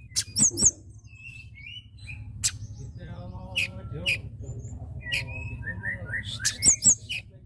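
Tledekan gunung, a small Indonesian songbird, singing: sharp chirps and quick falling whistled notes, with a loud flurry near the end.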